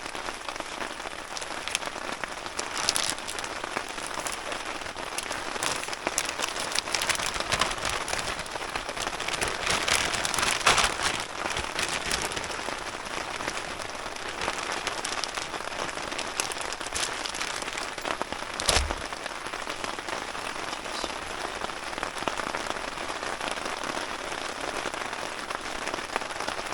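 Steady rain falling on a surface, a dense crackle of drops that grows heavier about ten seconds in. A single sharp thump stands out a little before nineteen seconds in.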